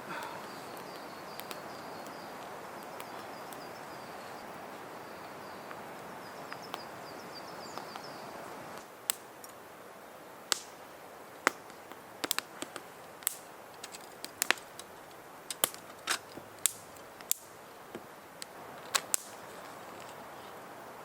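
A wood campfire crackling, with irregular sharp pops and snaps, a dozen or more over about ten seconds. Before that comes a steady rushing background with a faint, high, repeated chirping, which stops abruptly before the pops begin.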